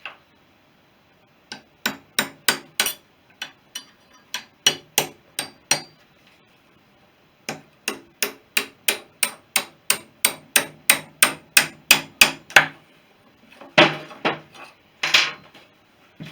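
Hammer striking a steel punch to drive a tight engine mounting stud out of a BSA B31 motorcycle's frame: a run of about ten sharp metallic blows, a pause, then a faster run of about seventeen, followed by two duller, longer knocks near the end.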